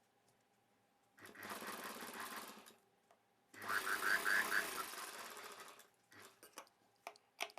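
Sewing machine stitching a seam through fabric in two short runs, about a second and a half and then two seconds long, followed by a few light clicks.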